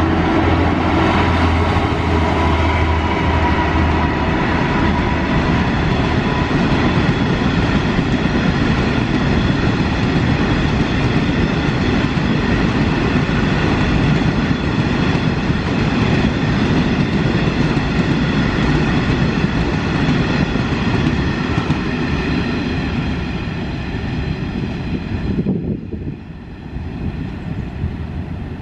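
A train running through the station at close range: a loud steady rumble of wheels on rail with a steady whine over it. The sound drops away suddenly a few seconds before the end.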